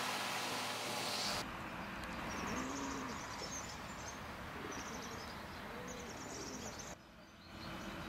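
Outdoor background with small birds chirping in short high trills, three or four times. It opens with about a second and a half of louder rushing noise that cuts off suddenly.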